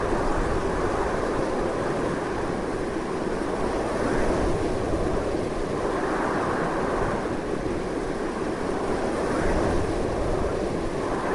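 Strong wind blowing continuously, a steady rushing with slow, gentle swells.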